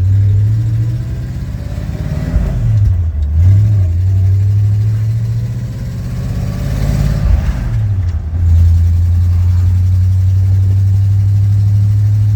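1952 Ford F-2 pickup's original flathead engine running under way, heard from the cab. Its note dips and comes back up twice, about two and seven seconds in, then holds steady.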